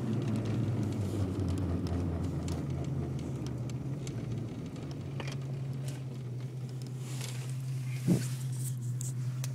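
A Ford Mustang 5.0 V8 heard from inside the cabin while braking at low speed, with a steady low engine hum and a lower rumbling vibration that fades out about halfway through. This is the unexplained vibration noise that shows up when braking below about 10 mph, which new U-joints, wheel bearings and motor and transmission mounts have not cured. There is a brief click about eight seconds in.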